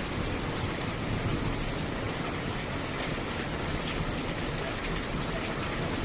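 Steady rainfall, an even hiss with scattered drops.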